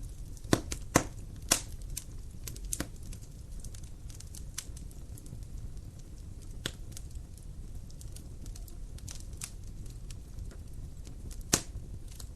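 Campfire crackling: irregular sharp pops of burning wood over a low steady rumble, with a cluster of louder pops in the first second and a half and another loud pop near the end.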